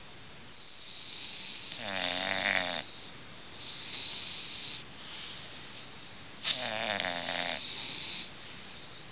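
English bulldog snoring in its sleep: two louder snores with a wavering pitch, about four and a half seconds apart, with softer breathy breaths between them.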